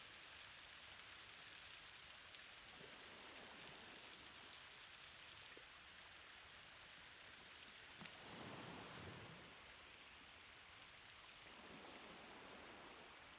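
Faint steady hiss of outdoor noise, like rain or running water, with soft swells and one sharp click about eight seconds in.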